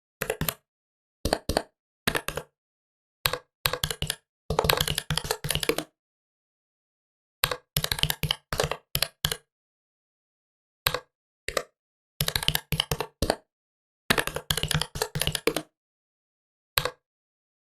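Typing on a computer keyboard: bursts of quick keystroke clicks separated by pauses of dead silence.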